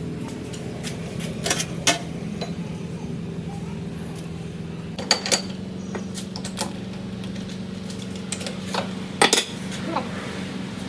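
Metal parts clinking and knocking against each other a handful of times over a steady machine hum, which shifts slightly in pitch about halfway through.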